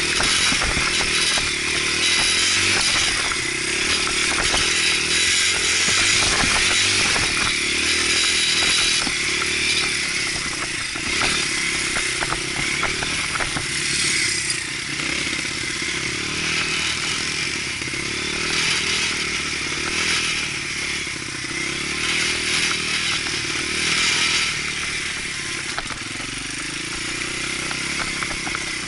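Dirt bike engine running while ridden over a trail, its pitch rising and falling as the throttle changes, with a constant hiss and scattered clattering over it.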